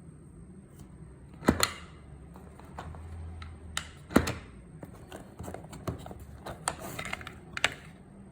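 Irregular sharp clicks and knocks, a couple of them much louder than the rest, over a low steady hum.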